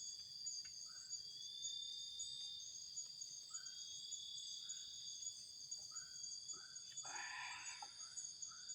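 Forest insects trilling steadily in several high pitches, one of them pulsing. Another caller gives short repeated notes about once a second, and a brief louder noise comes about seven seconds in.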